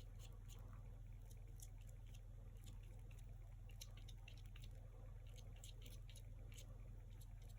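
Faint, irregular scratchy strokes and taps of a brush applying acrylic paint to canvas, several a second, over a steady low hum.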